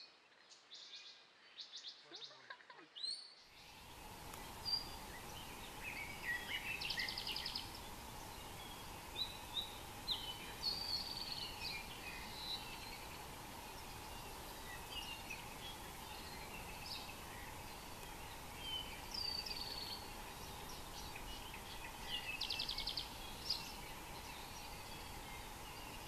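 Forest birds calling and singing: scattered chirps and whistled notes, with a short fast trill about seven seconds in and again near the end. A few faint chirps come first, then a noisier field recording cuts in about three seconds in, with a steady hiss and hum under the birds.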